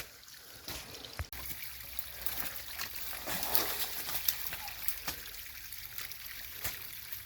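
A small spring-fed stream trickling down a steep hillside, mixed with rustling and scuffing steps as someone climbs beside it. There is a sharp knock about a second in.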